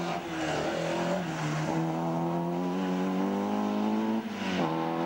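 Opel Kadett C Coupé's four-cylinder engine revving hard under acceleration on a slalom course, its pitch climbing steadily for about four seconds. Near the end the pitch drops sharply with a short rush of noise, as at a gear change or lift-off, before the engine pulls again.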